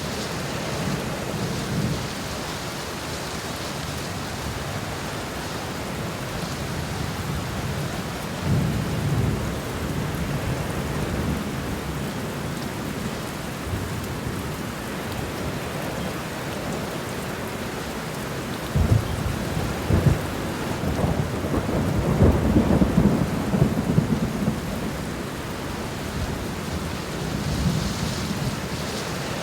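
Steady rain falling, with rolls of low rumbling thunder. The loudest roll comes about two-thirds of the way through, opening with two sharp cracks.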